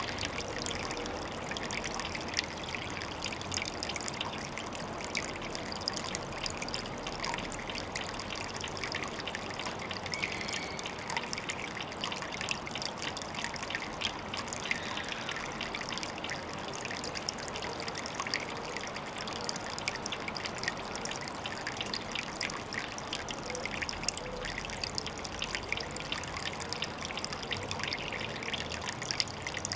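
Water trickling steadily into a pond, with a constant patter of tiny splashes and drips.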